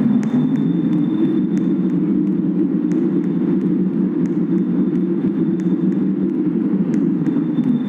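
Kinki Sharyo–Nippon Sharyo light rail train running: a steady low rumble with a faint thin high whine and light ticks about every half second.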